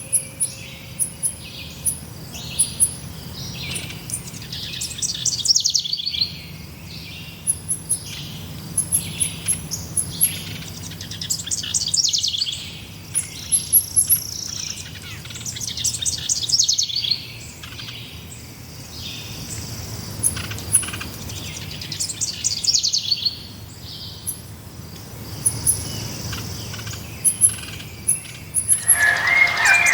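Forest songbirds singing: short, bright song phrases come every few seconds, several sweeping downward in pitch, with thin, high repeated chirps in between.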